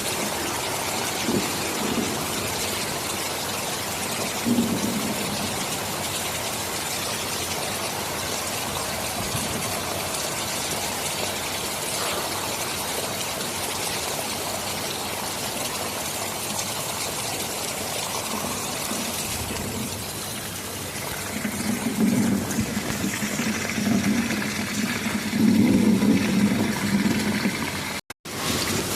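Heavy rain falling steadily, with thunder rumbling low in the last third and swelling louder toward the end.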